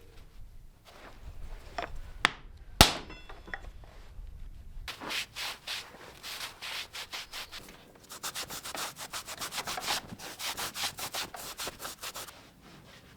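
Hand sanding on the oak of an anvil stand: quick back-and-forth rubbing strokes that start about a third of the way in and stop shortly before the end. They are preceded by two sharp knocks, the second the loudest sound.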